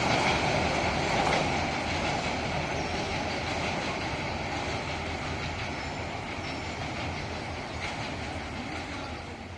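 A passing train's wheels running over the rails with occasional clicks from the rail joints, fading steadily as the train moves away.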